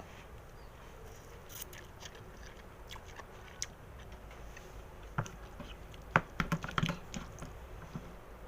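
Eating sounds from a bowl of bakso: scattered small clicks and taps, with a quick run of louder ones about five to seven seconds in.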